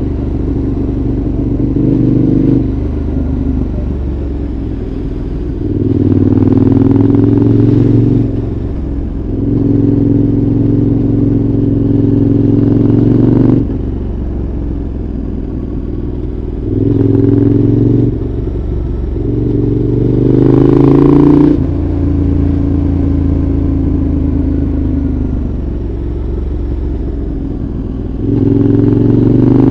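2014 KTM 1190 Adventure's V-twin engine through a Giannelli exhaust, heard from on board: five times the throttle opens and the engine note rises in pitch as the bike accelerates. Between these it drops back to a quieter, steadier note with the throttle closed.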